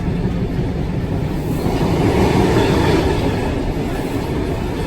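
Train running on the rails, a steady rumble of wheels and carriage noise that swells louder about two to three seconds in.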